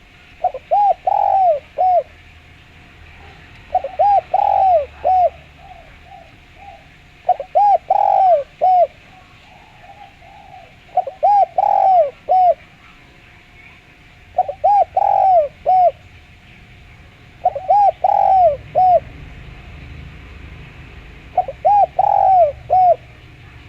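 Spotted dove cooing in a clear voice: seven repeated phrases of a few short coos each, one phrase every three to four seconds. Faint chirps of small birds can be heard behind it.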